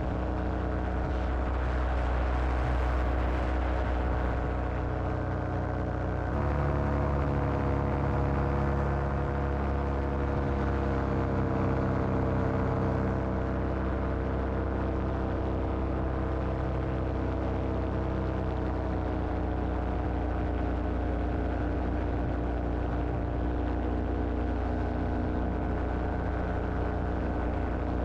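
Paramotor engine and propeller running steadily in flight, with an abrupt change in tone about six seconds in and a slight drop in pitch a few seconds later.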